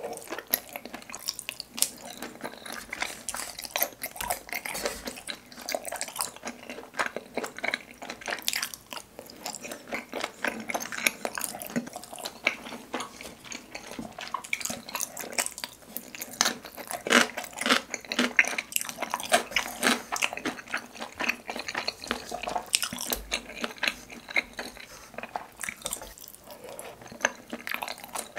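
Close-miked wet chewing, biting and slurping of spicy tteokbokki rice cakes and glass noodles, with many quick, wet mouth clicks and smacks.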